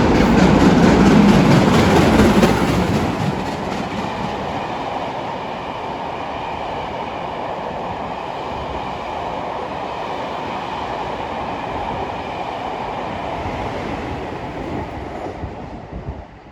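A steam-hauled rail tour train, led by LNER B1 4-6-0 61306 Mayflower, passes through at speed. It is loudest in the first three seconds as the front of the train goes by, then the coaches' wheels roll steadily over the rails until the sound dies away near the end.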